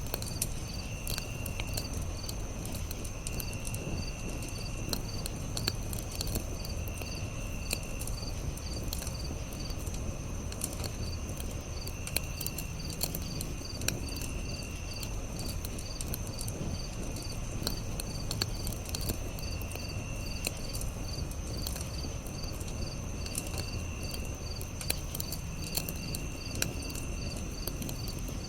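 Campfire crackling with frequent sharp pops over a low steady hiss, layered with crickets: a continuous high trill, a pulsed chirping, and a lower insect trill that comes in again and again for a second or two at a time.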